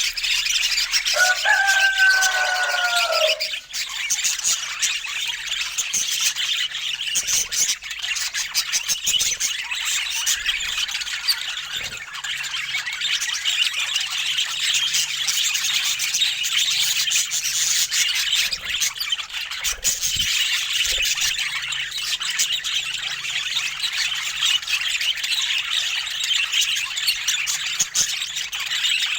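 Budgerigars chattering and chirping continuously. About a second in, one louder, lower drawn-out call falls slightly in pitch for about two seconds.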